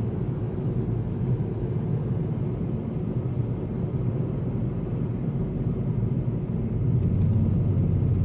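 Steady low rumble of road and engine noise heard inside a moving car's cabin, growing slightly louder about seven seconds in.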